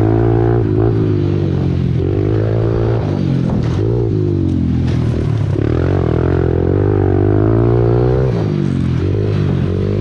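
Small single-cylinder 110cc pit bike engine being ridden, revving up and falling back about five times as the throttle opens and closes, over a steady low engine hum.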